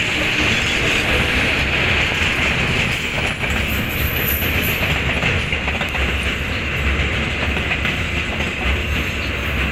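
Passenger train carriages rolling past at close range: steel wheels on the rails making a steady, loud rolling rumble and hiss with light irregular clicks.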